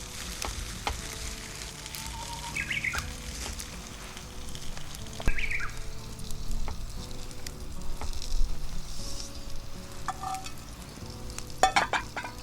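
Hamburg steak sizzling in a cast-iron skillet over a campfire, with scattered light clicks and taps.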